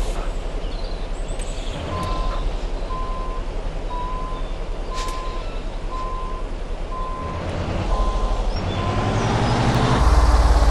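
A truck's reversing alarm beeping about eight times at an even pace over the steady running of the truck engine. Near the end the alarm stops and the engine speeds up, its pitch rising.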